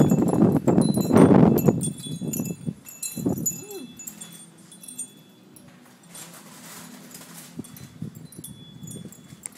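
Wind chimes ringing in a gusting storm wind, with the wind buffeting the microphone loudly for the first few seconds before easing off.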